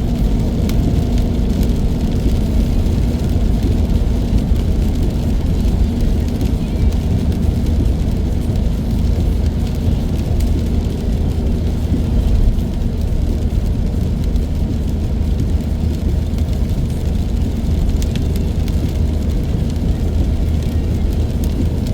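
Steady low drone of a car being driven, heard from inside the cabin: engine and tyre noise at an even speed.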